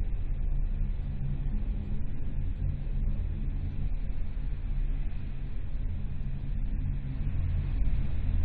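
Soyuz ST-B rocket engines rumbling steadily in ascent, about a minute after liftoff, with the first- and second-stage engines at nominal thrust.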